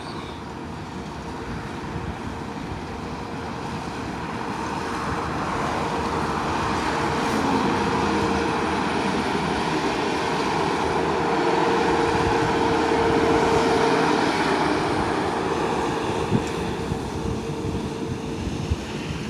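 Steady engine noise with a constant hum, slowly growing louder over about twelve seconds and then easing off.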